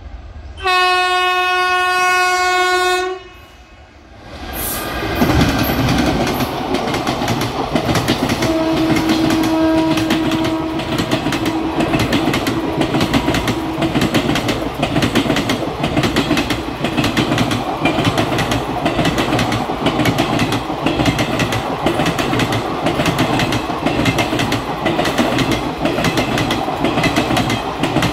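An Indian Railways locomotive horn sounds one long blast, then an express train passes at speed: a steady rush of coaches with a rapid clickety-clack of wheels over the rail joints. Partway through, a fainter horn is held for several seconds over the passing coaches.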